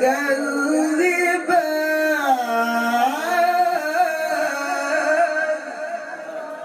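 A man reciting the Quran in a melodic tajweed style, drawing one word out into a long ornamented melisma that glides up and down in pitch. The voice eases off slightly near the end.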